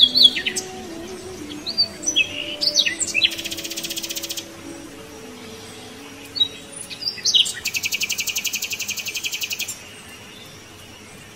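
Small birds chirping: short high whistled chirps, and twice a fast, even trill, the second lasting about two seconds, over faint steady low tones.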